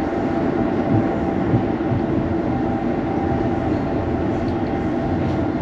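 Moving passenger sleeper train heard from inside the carriage: a steady rumble of wheels on the track with a few brief low knocks.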